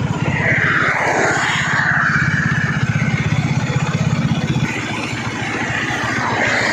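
Motorcycle engine running with a fast, even pulse, its note shifting slightly about two-thirds of the way through. A rushing noise swells and fades about a second in and again near the end.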